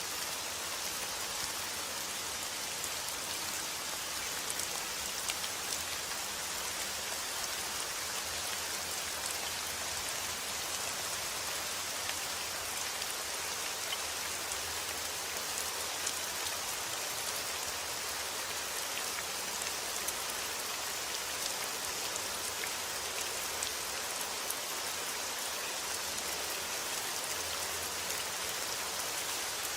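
Steady rain falling: an even hiss flecked with the fine patter of individual drops, unchanging throughout.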